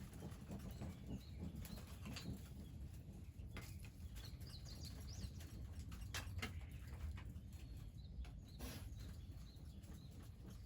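Outdoor ambience: a few short bird chirps over a steady low rumble, with scattered sharp clicks and knocks.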